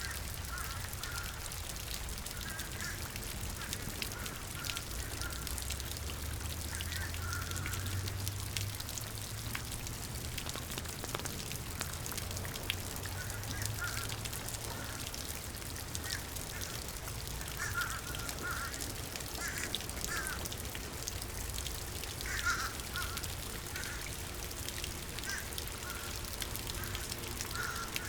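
Ducks quacking in short clusters every few seconds over the steady hiss of rain.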